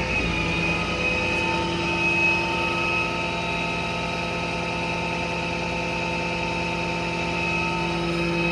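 An engine running steadily at a constant speed, with a steady hum and whine.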